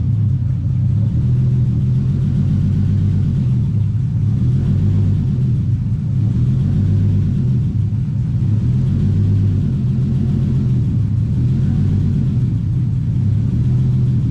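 Turbocharged Lexus IS300's straight-six engine idling with a low, steady rumble that swells and eases slightly every second or two.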